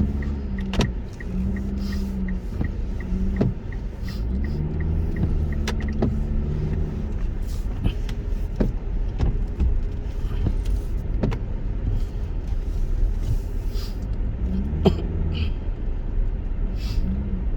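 Car cabin noise while driving: a steady low road and engine rumble, with scattered sharp clicks and knocks.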